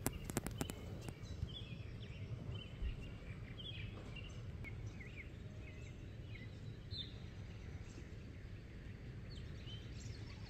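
Outdoor ambience of birds calling in short scattered chirps over a steady low background rumble, with a few clicks in the first second.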